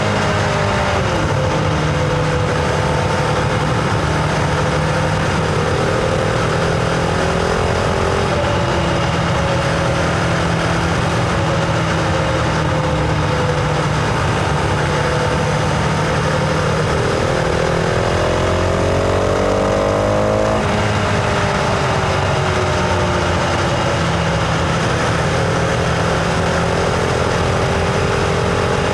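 Husqvarna Vitpilen 701's single-cylinder engine under way, its pitch rising and falling with the throttle: a long steady climb ends in a sudden drop about 20 seconds in, then the pitch sinks slowly. A steady rush of wind runs underneath.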